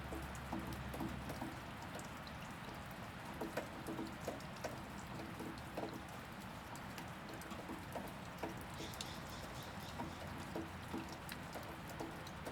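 Steady rain falling, with many separate drops pattering and dripping close by over the constant hiss of the downpour.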